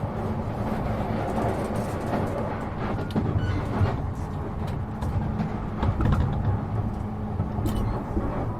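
Running noise of an E233-7000 series electric train heard from inside the car while under way: a steady rumble of wheels on rail with a low steady hum and a few faint clicks.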